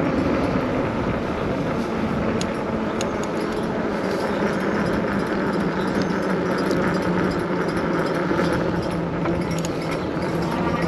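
Wind rushing over the microphone and road noise while riding the Kreboc ES750 electric bike, with a steady low hum underneath and a couple of light clicks about two and three seconds in.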